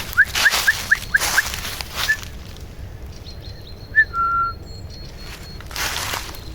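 A small bird calling: a quick run of about six short rising chirps, a single chirp a little later, then a chirp and a brief steady whistle. Footsteps crunch through dry leaves at the start and again near the end.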